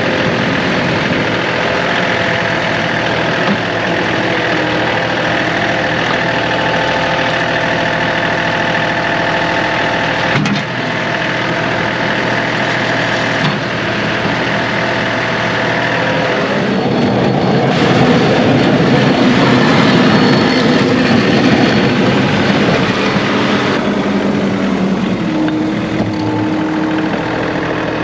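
John Deere 2038R compact tractor's diesel engine running steadily, growing louder and rougher about two-thirds of the way through.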